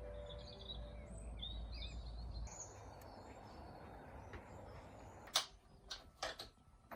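Small birds chirping faintly as background music fades out, then a few faint clicks or knocks near the end.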